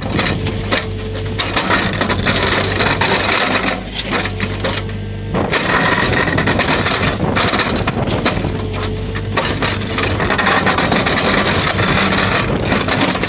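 A backhoe at work with a multi-ripper attachment: its diesel engine runs steadily under load while the ripper scrapes and crunches through the ground. The engine eases off briefly about four seconds in, then picks up again.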